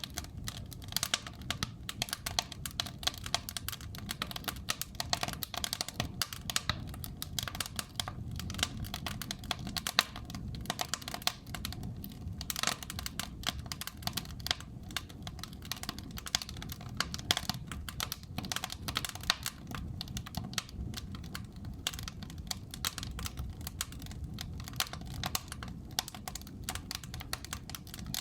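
Wood fire burning in a fireplace: dense, irregular crackling with now and then a louder snap, over a low rumble of the flames.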